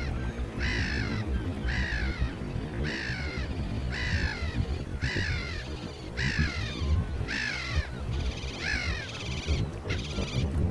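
Seagull calling in a long, regular series of short calls, about one a second, each falling in pitch, over a steady low rumble.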